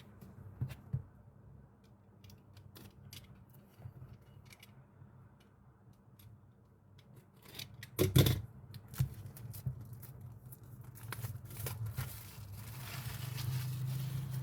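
Product packaging being opened by hand: scattered small clicks and scrapes, one loud knock about eight seconds in, and a hissing rustle for the last two seconds or so.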